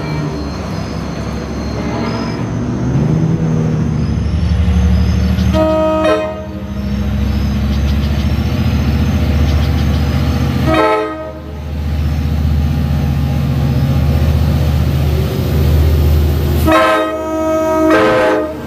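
Long Island Rail Road diesel train sounding its horn over a steady low engine rumble: a short blast about six seconds in, another around eleven seconds, and a longer two-part blast near the end.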